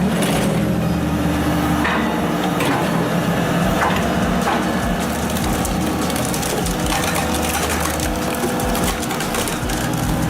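Logs cracking and splintering as they are split by a powered wood splitter, with repeated sharp cracks, more frequent near the end, over the machine's steady engine.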